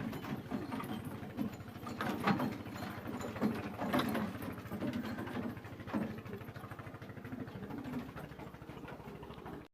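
A small motor or engine running steadily with a fast, even rattle, and a few short louder sounds on top about two, four and six seconds in.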